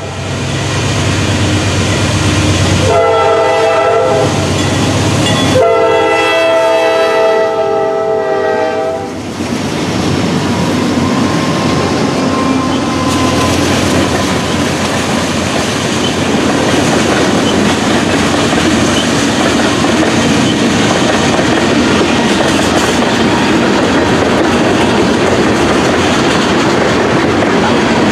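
Freight train passing: the diesel locomotive sounds two horn blasts, a short one and then a longer one of about three seconds. It is followed by the steady rumble and clatter of the freight cars rolling by.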